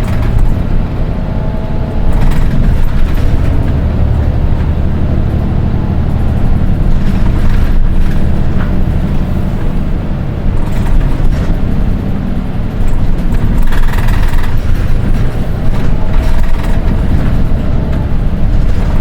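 Nissan Diesel Space Runner RM820 city bus heard from inside the cabin while driving, its diesel engine running with a heavy low rumble and a whining tone that rises and falls with speed. This bus is known for an unusually high-pitched engine note compared with others of the same model.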